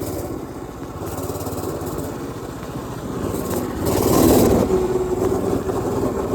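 Mini bike's Predator 212 single-cylinder engine running under way, then opened up hard about four seconds in for a wheelie attempt. It gets louder briefly before easing back to a steady run.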